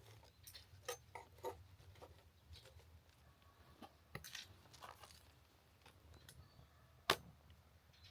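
Faint crackling and small snaps of dry twigs and paper kindling as a wood fire catches, with one sharper crack about seven seconds in.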